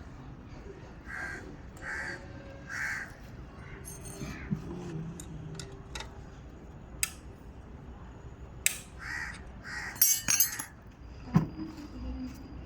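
A bird calling in short, evenly spaced calls, three about a second in and two more about nine seconds in. Sharp clinks and knocks come in between, loudest in a quick cluster about ten seconds in and once more just after.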